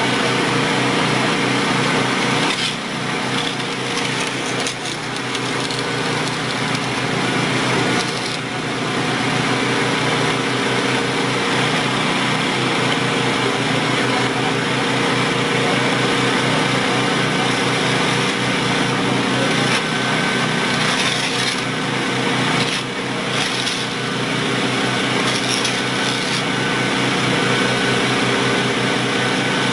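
A motor running steadily with an even pitched hum, easing off briefly a few times.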